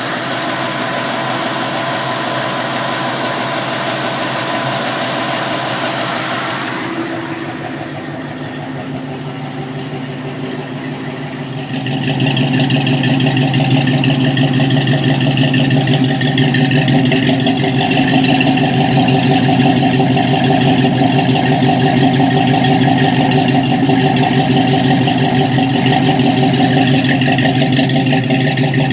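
An '86 K5 Blazer's Ramjet 350 small-block V8 idling steadily, running again after sitting a long time. A high hiss lies over it for the first several seconds. About twelve seconds in the engine gets louder and fuller and stays so.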